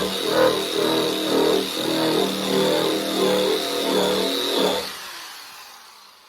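Eastwood SCT variable-speed surface conditioning tool with a paint-stripping wheel, grinding paint and body filler off a truck cab's sheet metal. A high steady whine sits over a wavering growl that shifts as the wheel bites. The wheel is lifted off about five seconds in and the tool winds down.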